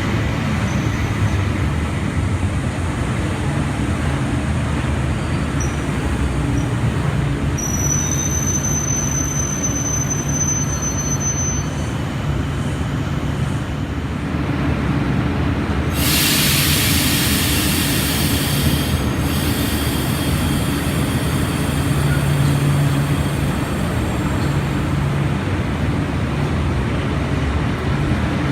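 A train rumbling through a railway station, with a high, thin wheel squeal for a few seconds about eight seconds in, and a burst of hiss lasting about three seconds past the halfway point.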